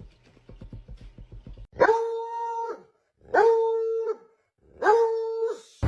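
Dog howling three times, each howl just under a second long and held at a steady pitch, after a brief run of faint rapid clicks.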